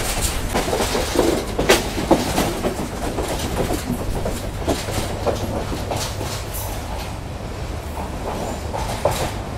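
Passenger train running on the rails, heard from an open carriage doorway: a steady rumble with the clickety-clack of wheels over rail joints and scattered knocks, as it rolls alongside a station platform.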